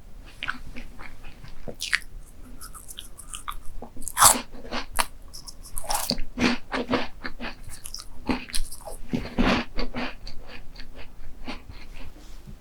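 A person biting and chewing crunchy dessert close to the microphone, with repeated irregular crunches and crackles, the loudest bites about 4 s and 9 s in.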